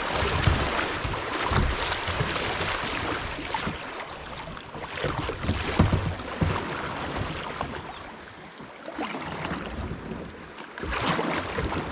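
Kayak being paddled on a creek: paddle strokes splashing and water rushing against the boat, with irregular low thumps. It eases off for a couple of seconds past the middle, then picks up again near the end.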